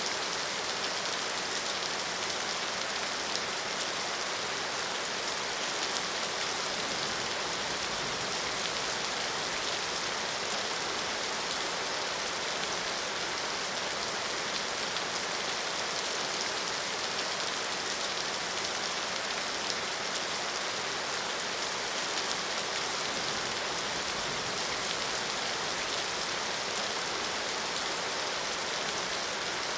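Steady, continuous rainfall, an even hiss of drops hitting surfaces with no letting up.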